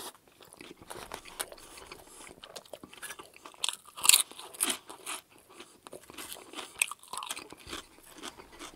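Close chewing of a soft sub sandwich bite, then loud, crisp crunching of a potato chip starting about three and a half seconds in. The crunches are loudest just after four seconds and carry on more softly to the end.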